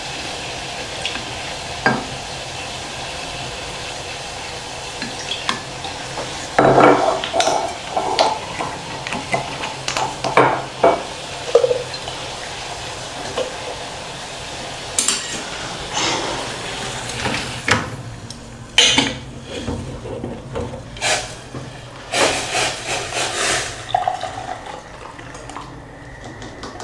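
Kitchen clatter: a spoon and cups or dishes clinking, with a spoon stirring, over a steady hiss of water heating for a drink.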